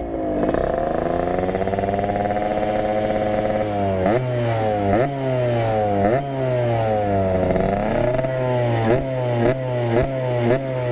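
Yamaha RX-King's 135cc two-stroke single-cylinder engine revved through an aftermarket PDK exhaust. It is held high for about four seconds, then blipped up and down roughly once a second.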